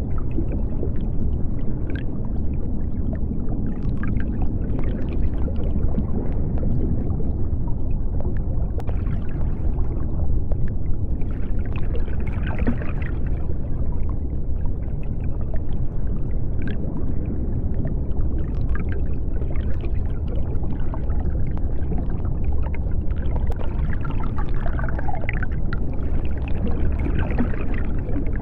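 Underwater sea ambience: a steady low rumble with scattered bubbling and small clicks.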